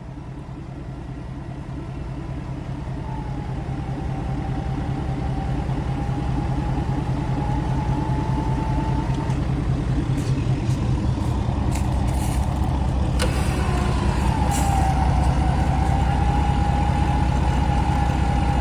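Heavy dump truck engine running steadily and growing louder throughout, with a thin whine that comes and goes twice and a few clicks in the middle.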